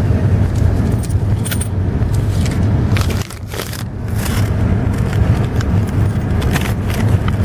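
Car engine idling with a steady low hum heard from inside the cabin, with light metallic jingling and scattered clicks from things being handled close by; the sound drops briefly a little over three seconds in.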